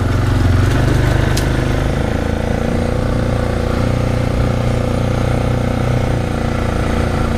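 Bobcat with a forestry cutter head running at steady speed, a loud continuous engine and cutter drone.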